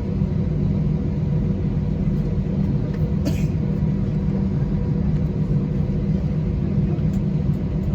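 Steady low rumble of an Airbus A320's IAE engines and airflow heard inside the passenger cabin, with a faint click about three seconds in.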